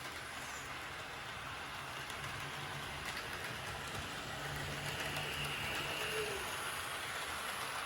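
HO-scale model trains running on the track: the steady whirring running noise of the locomotive motors and wheels, slightly louder toward the end.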